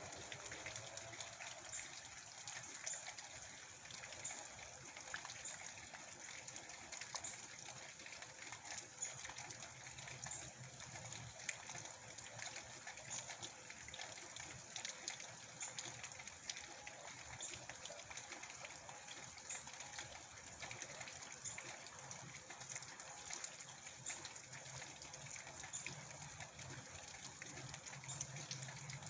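Steady rain, with many small drops ticking and water running.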